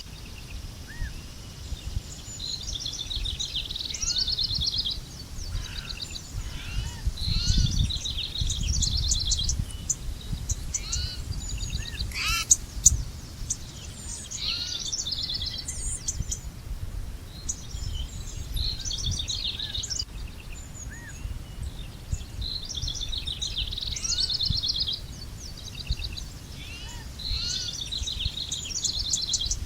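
Songbirds singing, short high trilled phrases repeating every few seconds, over a steady low rumble. One sharp click comes about twelve seconds in.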